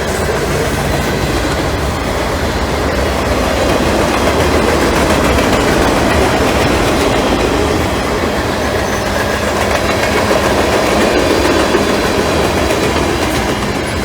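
Freight train cars rolling past at speed, wheels clacking steadily over the rail joints.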